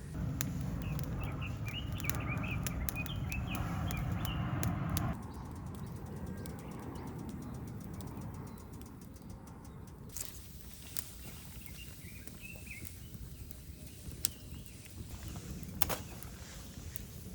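A wood campfire crackling with scattered sharp pops, with small birds chirping. A louder low rumble fills the first five seconds.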